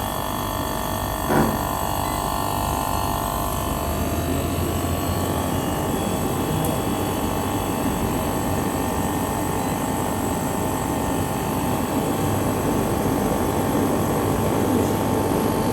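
Window air conditioner running with its compressor and fans on: a steady hum and whir, while the unit takes on a refrigerant charge through the gauge manifold.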